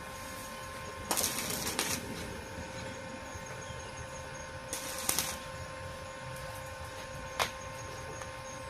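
Two short bursts of crackling from arc welding, one about a second in and a shorter one about five seconds in, over a steady hum. A single sharp click comes near the end.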